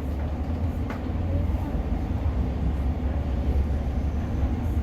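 Interior running noise of a Class 150 diesel multiple unit on the move: a steady low rumble of the underfloor diesel engine and wheels on the track, with a brief click about a second in.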